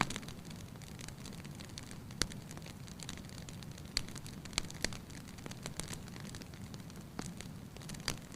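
Wood fire crackling in a fireplace: scattered sharp pops, about two seconds in, a cluster around four to five seconds, and more near the end, over a steady low rumble of the burning fire.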